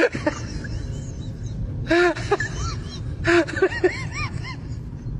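Short animal calls, each rising and falling in pitch, in clusters of several every second or so, over a steady low rumble.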